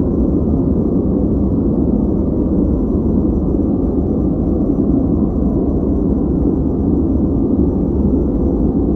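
Steady, unchanging noise track played as background for focus, deep and rumbling with its sound weighted to the low end and no hiss on top.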